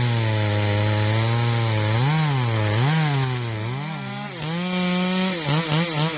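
MOTOYAMA 1000 chainsaw's two-stroke engine running hard in teak, its pitch dipping and recovering several times as the chain bites into the wood. Near the end it gives a few quick throttle blips.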